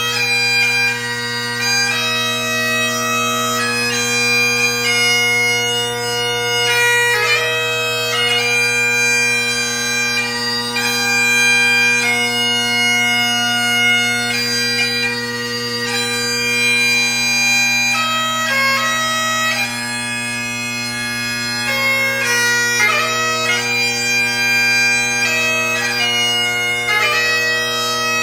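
Solo Great Highland bagpipe playing: the drones sound one steady low tone underneath while the chanter plays a melody of changing notes broken by quick grace-note flicks.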